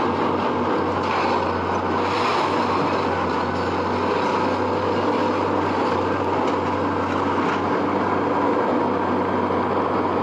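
Heavy machinery running steadily, a constant low engine drone under dense mechanical noise, with a few faint clicks.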